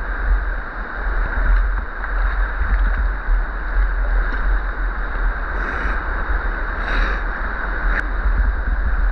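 River water rushing steadily around people standing in it, with a couple of brief splashes about six and seven seconds in.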